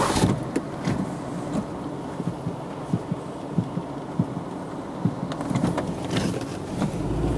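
First raindrops of a storm tapping on a car's windscreen and roof: scattered, irregular ticks over a steady hiss, with a cluster of sharper clicks about five seconds in.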